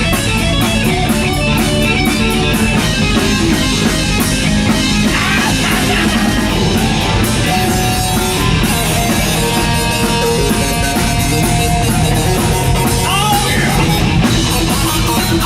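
Live hard rock band playing: electric guitar over a steadily beating drum kit, with bass, the guitar bending notes now and then.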